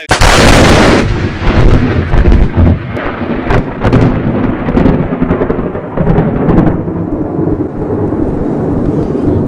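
Close lightning strike: a sudden deafening crack, then a long rolling thunder rumble with crackles, like an artillery volley.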